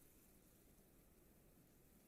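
Near silence: a very faint, steady wind-noise ambience.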